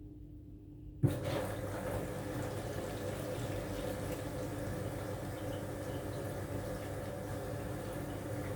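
Aqua AQW-DX12M drum washing machine: about a second in it starts with a sudden loud knock, then water runs steadily into the drum.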